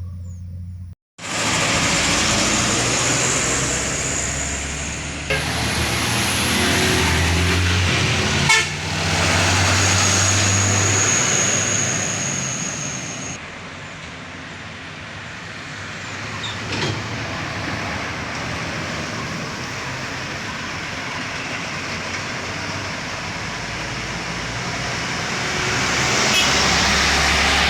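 Road traffic going by close at hand: truck and bus engines and tyre noise swelling and fading, with horn toots. The sound drops out briefly about a second in, then comes back loud.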